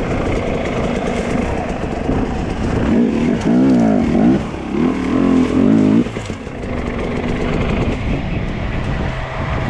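Dirt bike engine running, with repeated revs rising and falling in pitch that are loudest from about three to six seconds in.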